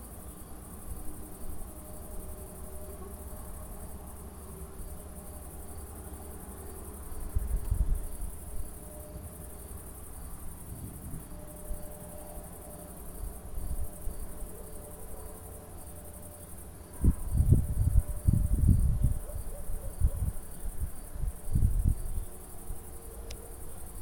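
Crickets chirping steadily, with low rumbles of distant thunder rising several times, the longest and loudest in the last third.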